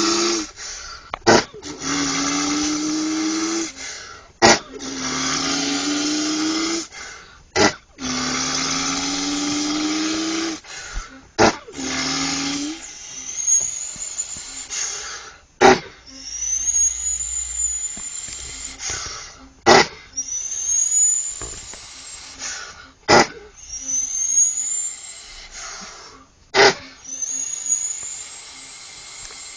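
A boy imitating a heavy truck with his voice: long droning hums of a few seconds each, slowly rising in pitch like an engine pulling, broken by sharp clicks. In the second half come hissing sounds, each topped by a high whistle that rises in pitch, about every three to four seconds.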